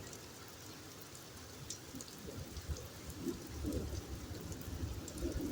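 Steady rain falling, with faint low rumbles in the second half.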